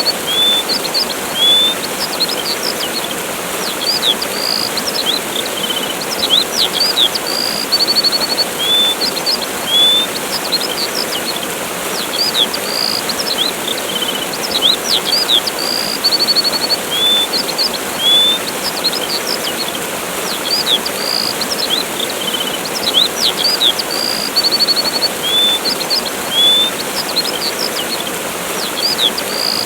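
Steady rushing water of a waterfall, with small birds chirping over it in short high calls and quick trills. The same run of calls comes back about every fourteen seconds, as in a looped recording.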